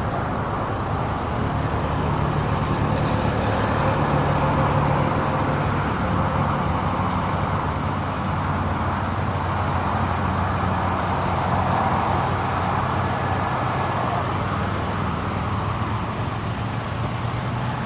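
1992 Toyota pickup's engine idling steadily.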